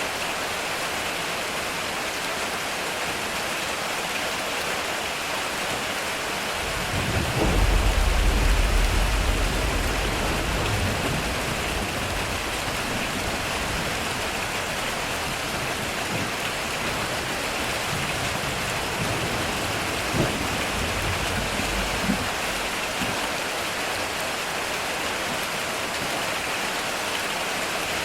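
Heavy rain falling steadily on a metal roof. About a quarter of the way in a deep roll of thunder swells up, is loudest for a couple of seconds, then slowly dies away, with two short sharp cracks a couple of seconds apart past the two-thirds mark.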